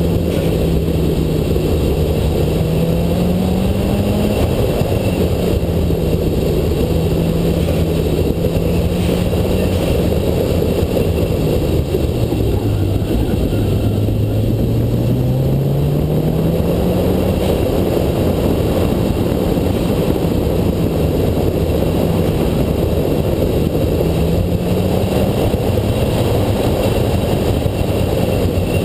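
Nissan SR20DET turbocharged 2.0-litre four-cylinder engine pulling the car through an autocross course. Its note rises and falls with throttle and speed, dropping lowest about twelve to fourteen seconds in, then climbing steadily again.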